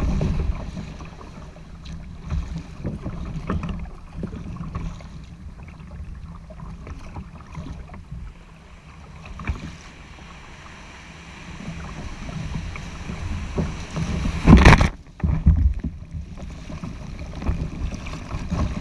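Ocean kayak launching through the surf: water splashing and waves, with wind buffeting the microphone. There is one loud burst of noise about three quarters of the way through.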